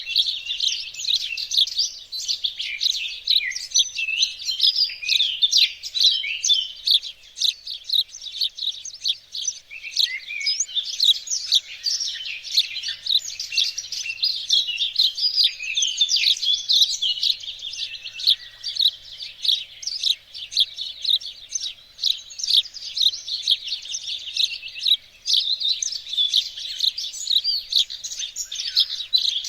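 Several songbirds singing and chirping at once, a dense, continuous chorus of quick high chirps and trills.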